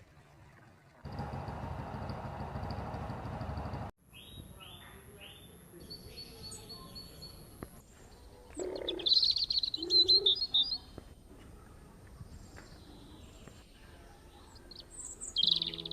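A burst of running water for about three seconds, then small birds chirping in short high calls, loudest about nine to ten seconds in.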